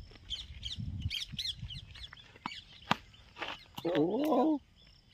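Small birds chirping repeatedly over a low outdoor rumble. There is a single sharp knock about three seconds in, then a short, loud, wavering call, the loudest sound here.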